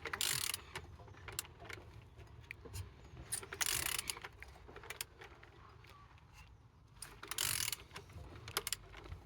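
A car engine being turned over by hand at the crankshaft: three short bouts of metallic rasping with scattered clicks between them. It turns freely, the sign of an engine that is not seized.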